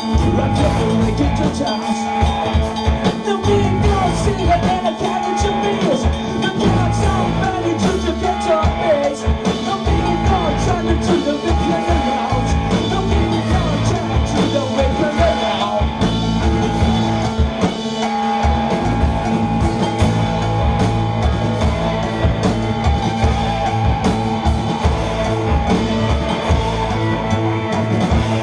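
Live rock band playing loud and continuous: drums, bass guitars and electric guitars, with a voice singing over them.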